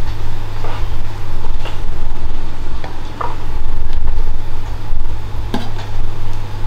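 Kitchen knife scraping the skin off a piece of boiled beef, giving a few short scrapes and clicks. A steady low hum and rumble runs underneath and is the loudest sound.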